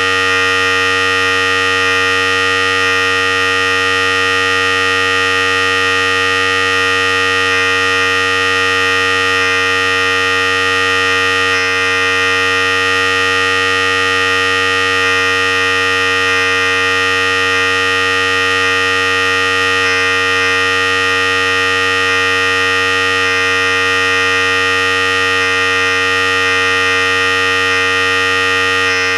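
Philips Series 5000 electric hair clipper running continuously: a steady, unchanging motor buzz with a fixed pitch.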